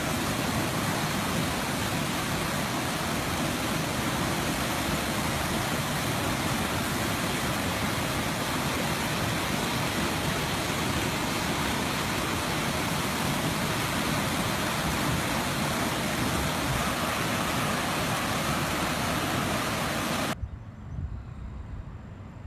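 Fast floodwater current of a swollen creek rushing, a loud, steady, even noise. It cuts off abruptly about twenty seconds in to a much quieter background.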